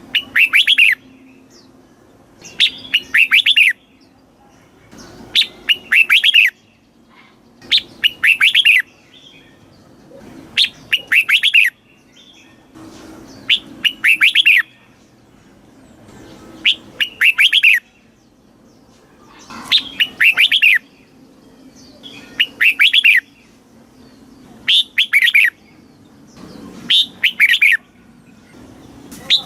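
Red-whiskered bulbul singing: a short, quick phrase of chirping notes, about a second long, repeated every two to three seconds.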